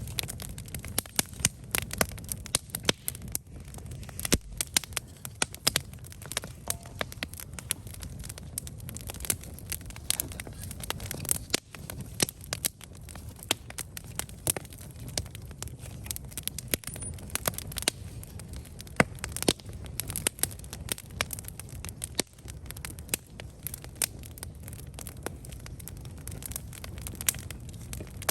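Wood campfire burning steadily, with irregular sharp crackles and pops over a low rumble of flames.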